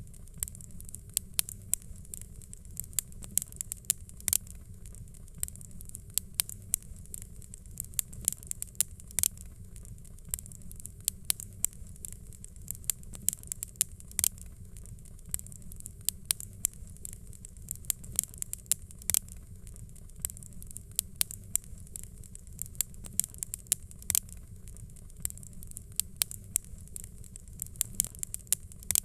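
Wood fire crackling, with frequent sharp irregular pops and snaps over a steady low rumble of burning.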